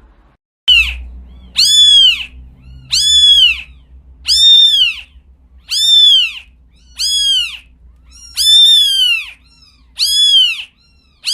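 A cat meowing over and over, about ten loud high-pitched meows, each rising and then falling in pitch, about one a second.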